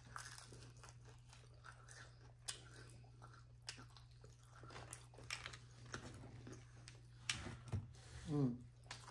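Chewing and biting into crispy fried chicken: scattered soft crunches and mouth clicks, with a brief hummed "mm" near the end.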